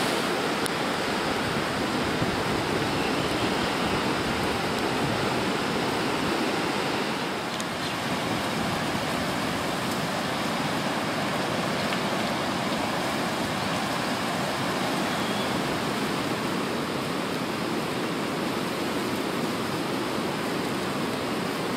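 Steady rushing of seawater as ocean swell washes in over the flooded coastal shore during a tropical storm.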